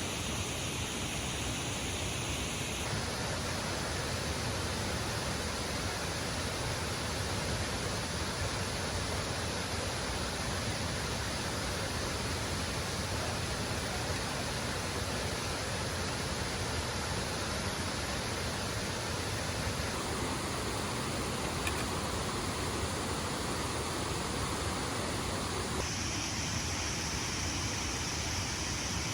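Steady rush of a waterfall, an even hiss of falling water with no breaks. Its tone shifts abruptly a few times.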